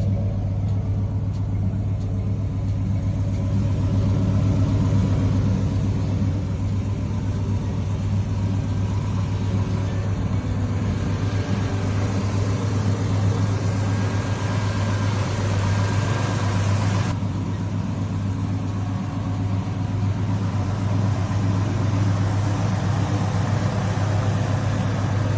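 Car engine running steadily with a low drone.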